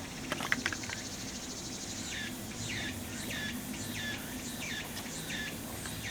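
An insect calling outdoors in a regular run of short falling chirps, about two a second, starting about two seconds in. A few light knocks and a fast high buzz come near the start.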